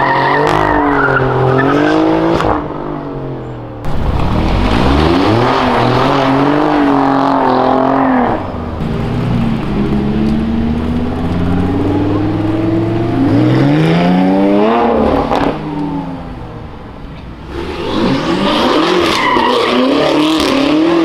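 Performance cars powersliding one after another, cut together several times: engines revving up and down in wavering sweeps under tyre squeal. The cars are an Alfa Romeo Giulia Quadrifoglio, a Lamborghini and a BMW M8. About two-thirds of the way through, one engine rises in a long climb.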